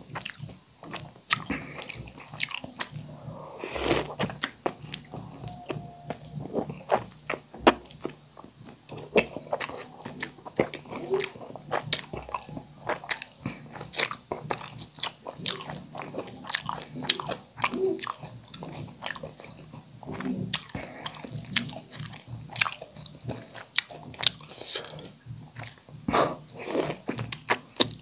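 Close-miked eating sounds of a person eating spicy instant noodle soup: steady chewing with many short, wet mouth clicks and smacks.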